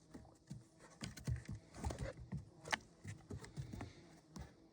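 Irregular taps and soft knocks on wooden boardwalk planks, from a German Shepherd's paws and claws as the dog moves about.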